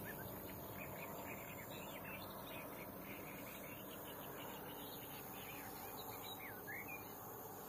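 Faint birdsong: scattered short chirps with a dipping call near the end, over quiet outdoor hiss.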